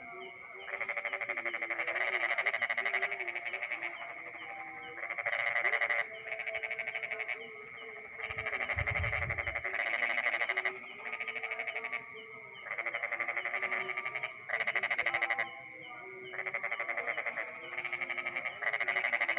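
Frogs calling at night in repeated bouts of rapid pulsed croaks, each bout a second or two long, over a steady high-pitched insect trill. A brief low rumble comes about nine seconds in.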